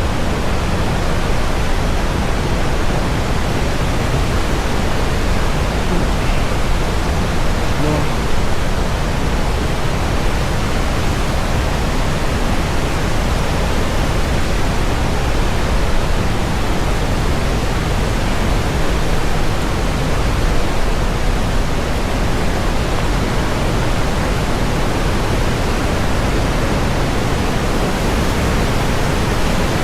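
Steady, loud rushing of river water, an even roar with no breaks.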